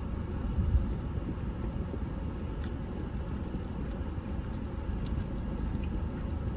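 Steady low rumble of a car heard from inside the cabin, with one louder low thump about a second in.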